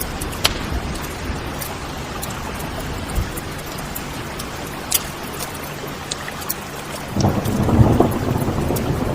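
Wood fire crackling with a few sharp pops over steady rain, then a low roll of thunder building about seven seconds in.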